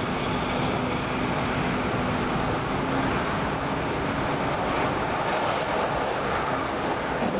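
X10 electric commuter train running, heard from inside the carriage: a steady rumble and hiss of wheels on rails, with a faint steady hum in the first half.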